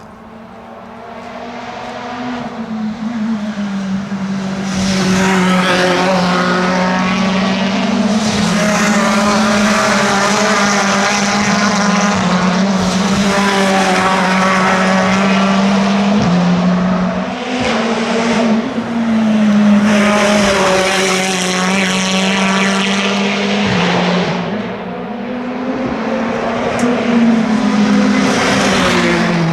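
Race cars approaching and passing at speed, several engines in turn, their pitch climbing and dropping repeatedly with the gear changes. The sound builds over the first few seconds and stays loud as the cars go by.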